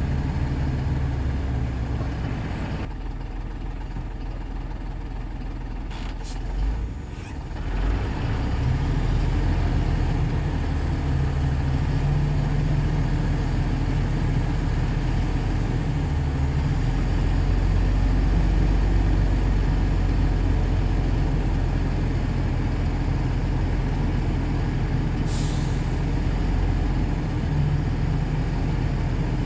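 Shantui DH17C2 bulldozer's diesel engine running under load, dropping quieter for a few seconds about three seconds in, then pulling strongly again. A brief hiss sounds near the end.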